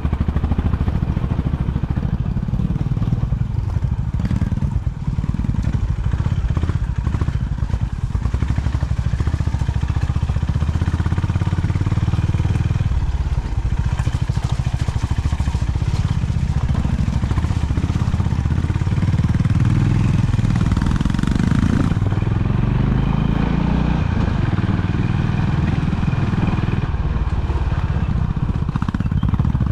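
Honda CB350 H'ness single-cylinder engine running steadily as the motorcycle is ridden, with small rises and falls in engine speed.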